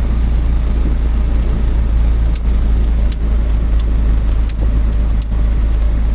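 Mazda B-series pickup's small four-cylinder engine, fuel-injected through a Holley Sniper EFI, running, heard from inside the cab as a steady low rumble. Several light clicks or rattles come in the middle of it.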